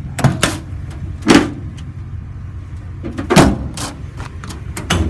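Steel utility-bed cabinet doors on a truck being worked open and shut: a series of about five sharp metal clacks and bangs, the loudest about three and a half seconds in.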